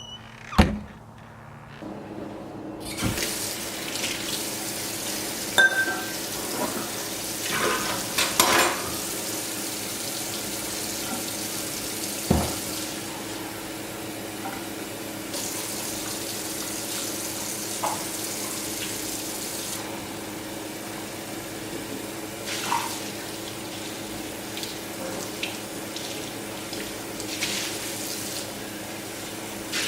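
Water running steadily from a tap into a sink, starting a couple of seconds in, with a few sharp clicks and knocks over it, the loudest one right at the start.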